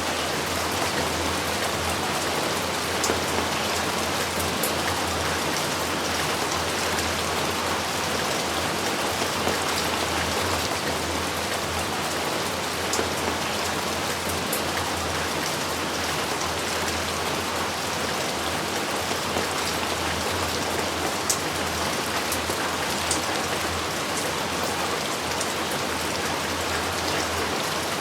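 Steady heavy rainfall, with scattered sharper ticks of single drops.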